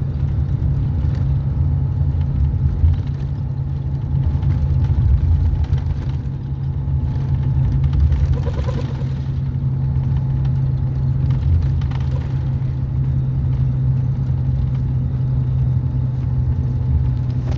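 Steady low rumble of a car on the move, with road and engine noise and no clear change in pace.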